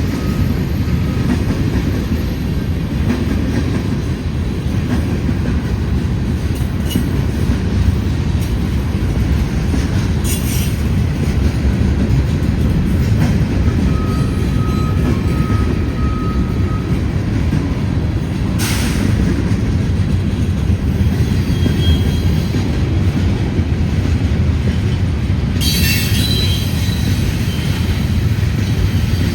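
Train cars rolling past with a steady low rumble of wheels on rail, with a few brief high wheel squeals about a third of the way in, past the middle and near the end.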